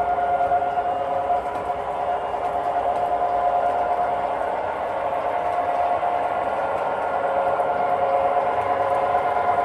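O scale model train running on the track, a steady mechanical whine with a constant pitch.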